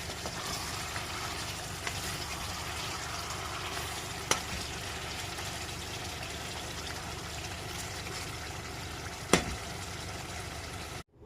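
Spicy chicken adobo sizzling steadily in a pan, with a few sharp knocks, the loudest about four and nine seconds in. The sizzle cuts off abruptly near the end.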